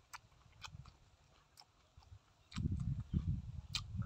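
Close mouth sounds of a person eating grilled squid: short wet clicks of chewing and lip-smacking, with a louder low rumble from about two and a half seconds in.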